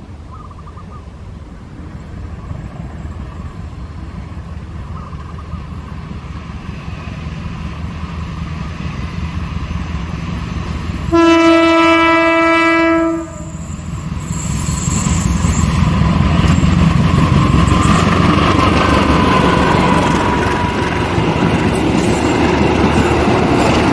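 Diesel-hauled passenger train approaching, growing steadily louder; about eleven seconds in the locomotive sounds one long horn blast of about two seconds, then the locomotive and carriages roll past close by.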